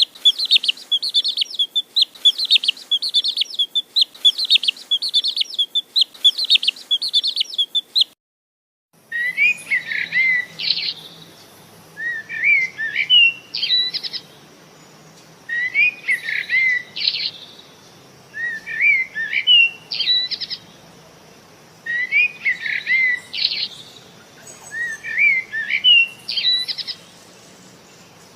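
Bird song from two different birds, one after the other. First comes rapid repeated chirping for about eight seconds. After a short break, a different bird sings a short whistled phrase about every three seconds.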